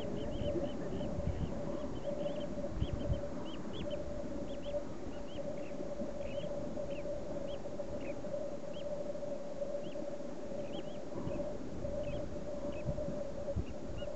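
Bird chirping in short, high, repeated notes, several a second at first and growing sparser, over a steady hum and a low rumble.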